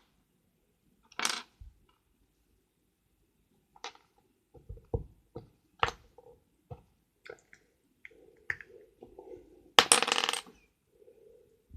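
Lego bricks clicking and clattering as they are handled: scattered sharp clicks, then a loud, dense rattle of pieces near the end.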